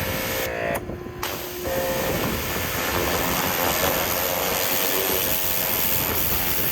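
Water running through a Ryobi electric pressure washer and spraying out in a steady hiss, starting about a second and a half in.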